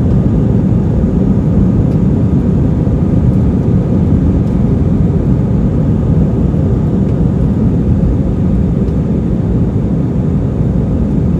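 Airbus A320 cabin noise: a steady, loud low rumble of the jet engines and rushing air, as heard inside the passenger cabin.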